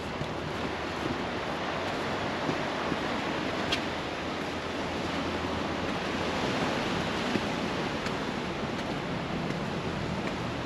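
Sea surf washing onto the beach, a steady rush of waves with a few faint ticks.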